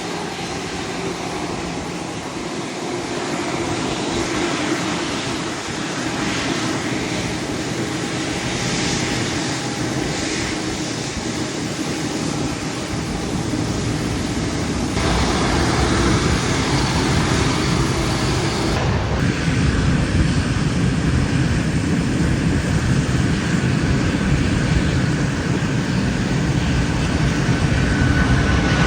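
Rolls-Royce Trent 800 turbofans of a Boeing 777-200 running with a steady jet roar. The sound gets louder and deeper about halfway through as thrust builds.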